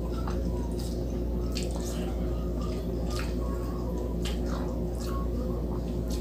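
A person chewing food close to the microphone, with irregular wet mouth smacks and clicks over a steady low hum.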